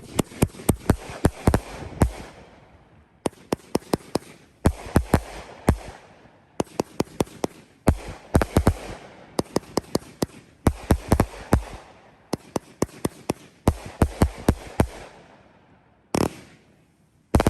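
A 30-shot aerial firework cake (Phantom Brand Voodoo Devils) firing in quick volleys of sharp bangs and crackling breaks, with short pauses between volleys. A lone final bang comes near the end.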